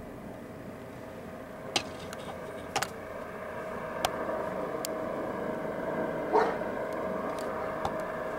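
A dog gives a single short bark about six seconds in, over a steady background hum, with a few sharp clicks before it.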